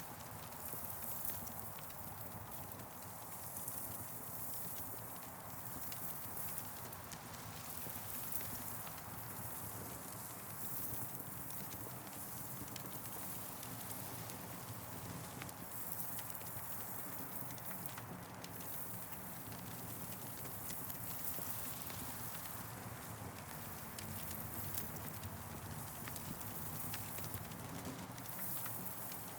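Campfire crackling, with scattered sharp pops and snaps over a steady hiss.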